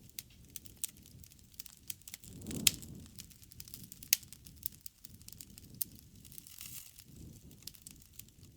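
Wood fire crackling, with many sharp pops and snaps over a low rumble of burning; the loudest pop comes about two and a half seconds in.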